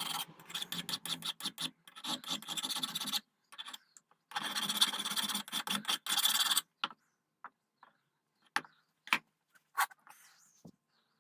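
Brass trigger guard being worked by hand: choppy scraping strokes for about three seconds, then a steadier stretch of scraping about two seconds long, then a few separate sharp clicks or taps.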